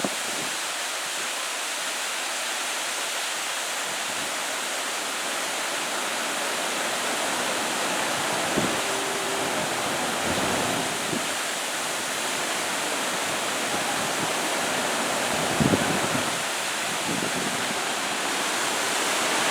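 Steady rush of running, splashing water, with a couple of brief faint knocks about halfway through and again later.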